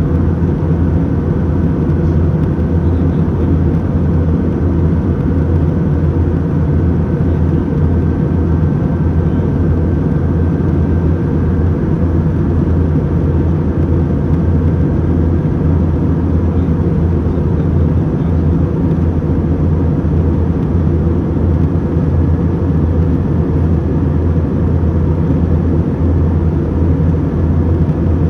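Cabin noise of an airliner in flight: a steady, loud drone with a deep hum and a few steady low tones under it.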